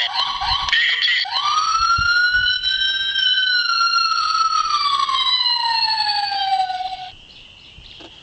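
Electronic police-siren sound effect from the toy RC police car's small speaker. A choppy burst of about a second gives way to one long wail that rises slightly and then falls slowly over about six seconds. The wail cuts off about seven seconds in, leaving a faint steady high tone.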